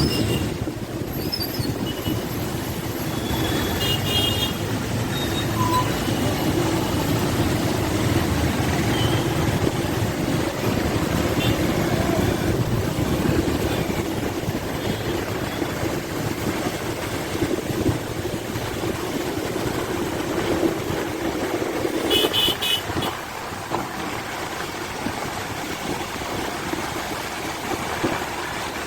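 Steady running noise of a passenger train, with two short high-pitched toots, one about four seconds in and one near twenty-two seconds.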